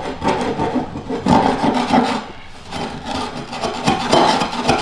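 Scraper rasping over wooden floorboards in repeated rough strokes, scraping off old linoleum glue stains.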